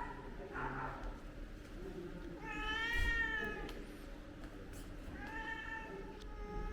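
Domestic cat meowing twice: a long meow that rises and falls about two and a half seconds in, then a second, flatter meow near the end.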